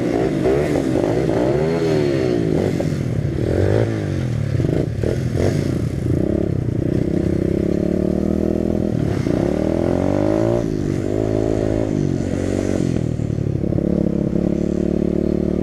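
Dirt bike engine running and revving, its pitch rising and falling over and over; it stops abruptly at the end.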